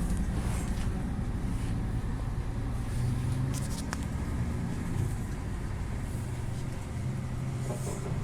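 Scania G 450 XT 8x4 truck's 13-litre inline-six diesel engine running as the truck pulls away, a low steady engine note. A few faint clicks come about midway.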